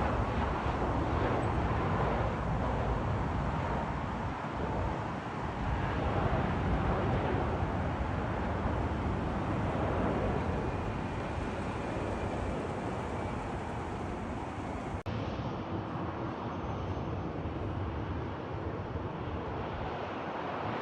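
Jet airliner engines, a steady loud noise with a faint gliding whine. About three-quarters of the way through it cuts off abruptly and goes on slightly quieter.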